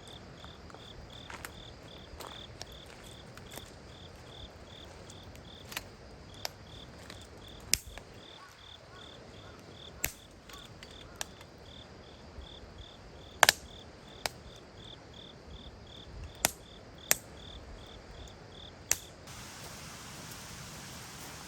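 A cricket chirping in an even rhythm, about two to three chirps a second, over sharp irregular snaps of burning firewood. The chirping stops about nineteen seconds in, leaving a steady hiss.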